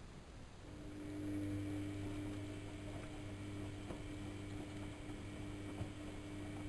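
AEG Electrolux Lavamat L6461 washing machine during a 95°C boil wash: a motor inside starts up just under a second in, then runs with a steady low hum and a higher steady tone.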